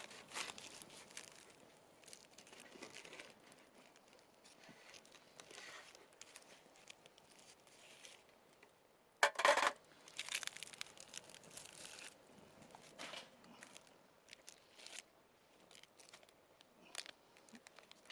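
Intermittent crinkling and tearing sounds with scattered small clicks, and one louder rustle about nine seconds in.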